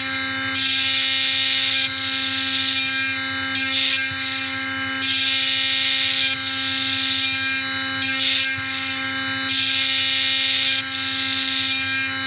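CNC machining centre spindle running with an end mill cutting a brass part, giving a steady whine with several fixed tones. A brighter, harsher cutting sound swells and fades every few seconds as the tool moves through its passes.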